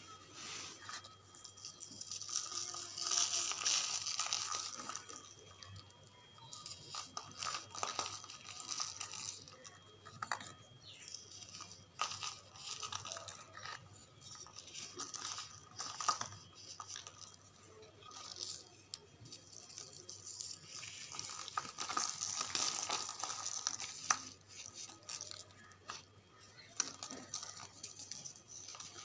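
Charcoal bars crumbling, an irregular crunching and crackling with scattered sharp snaps. It grows louder about three seconds in and again around twenty-two seconds.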